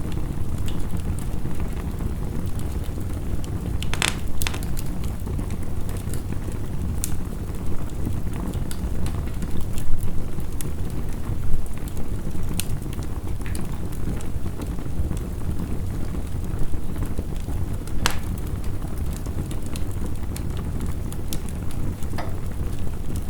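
Crackling wood fire giving scattered sharp pops and snaps, the strongest about four seconds in and again at about eighteen seconds. Beneath them runs a steady low rush of heavy rain.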